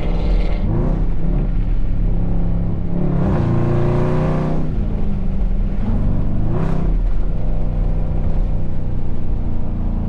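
Car engines on a cruise, heard from inside a moving Dodge Durango SRT 392: its 6.4-litre V8 drones steadily while other cars rev and pass, loudest about three to five seconds in and briefly again near seven seconds.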